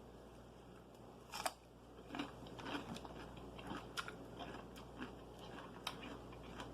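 Close-up eating sounds: faint chewing with scattered small crunches and mouth clicks, one louder crunch about a second and a half in.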